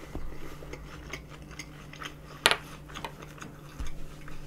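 Close-miked chewing of a mouthful of cheese pork cutlet, with small wet clicks and one sharp click about halfway through.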